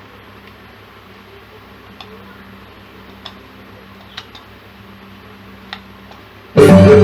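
Low steady hum and hiss with a few faint clicks, then about six and a half seconds in, loud music suddenly plays through the active subwoofer speaker from a USB stick: the speaker, dead before its power-supply regulator repair, is producing sound again.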